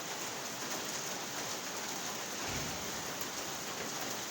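Heavy rain pouring steadily onto cars, with a short low rumble a little past halfway.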